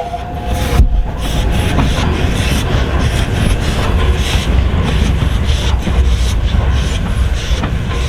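Steam-hauled train running on the rails: a steady low rumble with irregular knocks, and one loud thump just under a second in.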